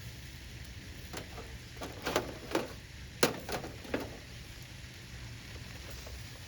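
A quick run of light clicks and knocks over a few seconds, then only a faint low steady hum.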